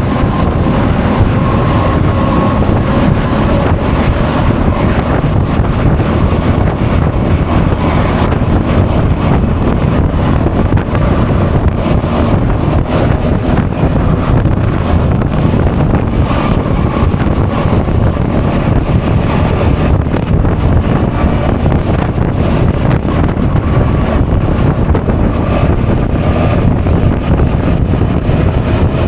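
Heavy wind buffeting an action camera's microphone while riding a Honda Forza 350 scooter, with the scooter's engine running underneath as a faint whine that drifts slowly in pitch.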